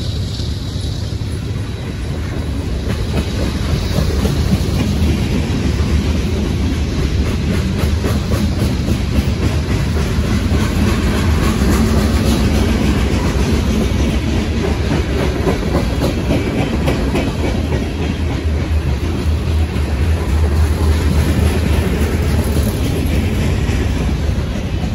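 Freight cars of a long mixed-manifest train rolling slowly past, their steel wheels running on the rails with a steady, low rumble.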